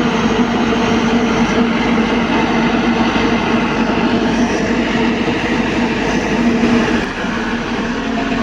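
Heavy diesel machinery running in a loud, steady drone with a constant hum, easing slightly about seven seconds in.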